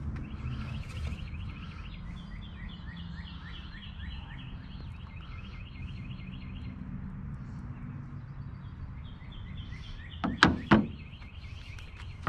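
Two sharp knocks in quick succession about ten seconds in, over a steady low hum and a repeated high chirping that runs through most of the time.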